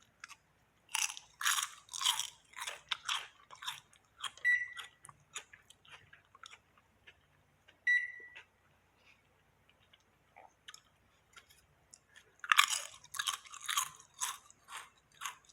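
Hamilton Beach microwave's touch keypad being pressed: a run of clicks, with a short beep from the microwave twice, at about four and eight seconds, then another quick run of presses near the end.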